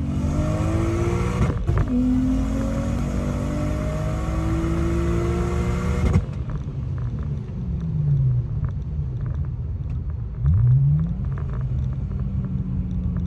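The single-turbo BMW 335i's N54 inline-six pulls hard at full throttle on a drag-strip run. Its revs climb, drop at a shift, then climb again, with the rear tyres spinning in what is called a really bad spin. About six seconds in the sound changes abruptly to lower engine noise whose revs fall, then rise briefly, then settle to a steady tone.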